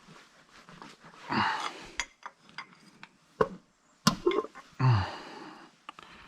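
Metal brake parts and tools clinking and knocking as a tight brake piston is worked loose by hand, with a sharp knock about four seconds in and a couple of effortful breaths.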